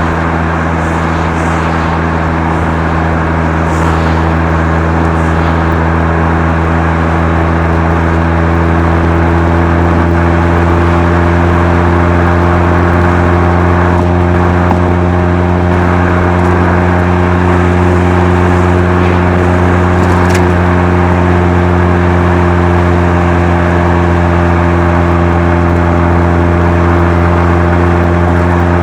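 Mazda RX-7 FC3S twin-rotor rotary engine running through a Knight Sports Legal Sports aftermarket muffler, a steady exhaust drone at constant revs while cruising. It gets slightly louder a few seconds in and then holds steady.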